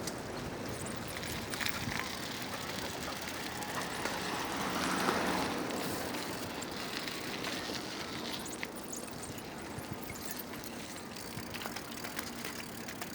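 Outdoor street noise with a steady hiss, swelling as a vehicle passes about five seconds in.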